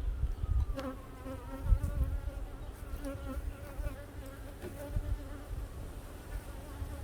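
Honeybees buzzing at an opened hive: a wavering, pitched buzz starts about a second in and fades after about five seconds, while another bee's buzz slides slowly down in pitch. Low rumbling handling noise runs underneath.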